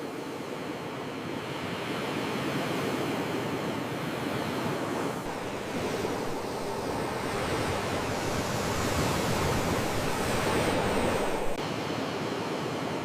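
Sea waves washing in steadily, with one swell building louder about two-thirds through and falling back sharply near the end.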